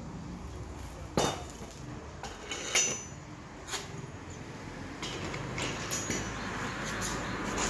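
Metal parts and tools being handled: a handful of sharp clinks and knocks at irregular intervals, the loudest about a second in, some with a short metallic ring.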